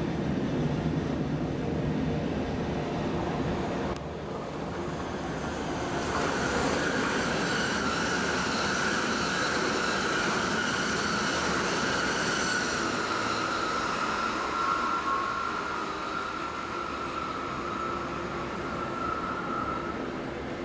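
MTR Airport Express train running through a station: rail noise builds from about six seconds in, carrying a steady high-pitched squeal that sinks slightly in pitch and eases off near the end. A sharp click sounds about four seconds in.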